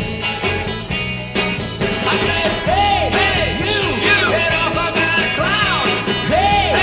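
Sixties rock band playing an instrumental passage, with a lead line that bends up and down in pitch over the bass and drums.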